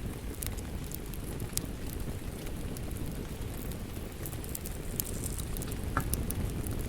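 Wood fire crackling: a steady low rumble of burning with scattered sharp crackles and pops, one a little louder about six seconds in.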